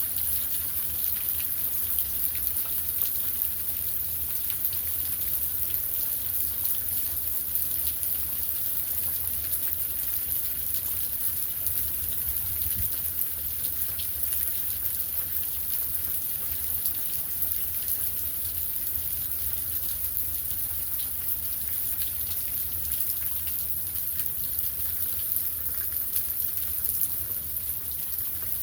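Heavy rain falling steadily, with countless drops pattering on surfaces and a low rumble underneath.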